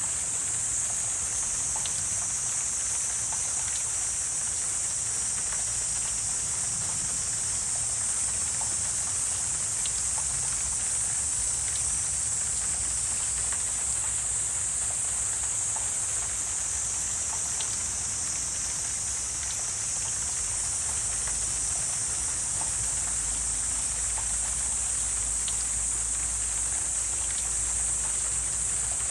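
Wetland ambience: a steady, high-pitched insect chorus that does not let up, with scattered faint clicks and a faint low rumble underneath.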